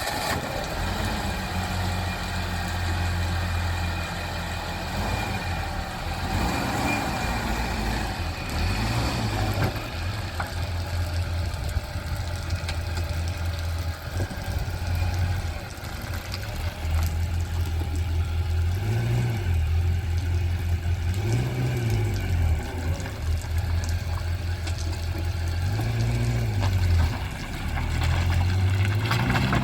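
Car engine running, its low hum rising in pitch and dropping back several times, as when the car gathers speed and changes gear.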